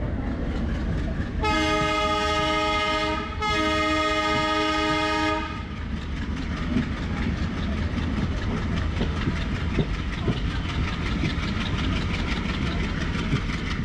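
Tejas Express locomotive's horn sounding two long chord blasts with a short break between them, over the rumble of the train running at speed. After the horn, the wheels clatter in a fast, even clickety-clack over the rail joints.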